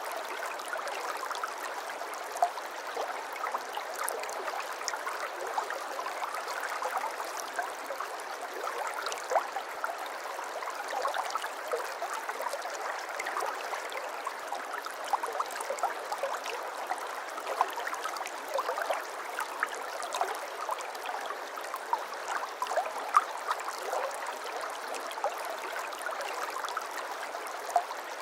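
Shallow stream of water flowing and babbling steadily, with a constant patter of small splashes and gurgles.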